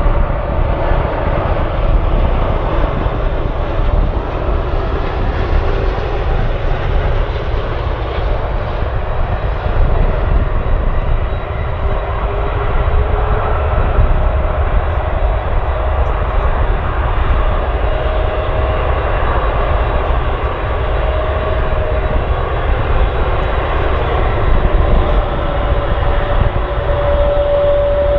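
Airliner engines running loud and steady, with a whine that wavers in pitch and grows stronger near the end.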